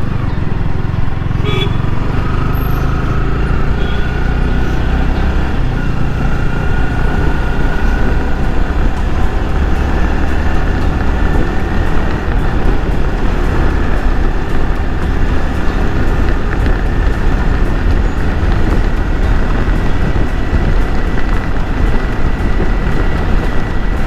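Yamaha R15 V3 single-cylinder engine running under way, with heavy wind rush on the microphone. The engine's pitch climbs gradually as the bike gains speed, and a short horn toot comes about a second and a half in.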